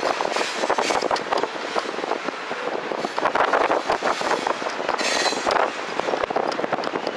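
Loaded covered hopper freight cars rolling past, their wheels and couplers clattering and clanking in a steady run of irregular knocks. A short high squeal cuts in about five seconds in.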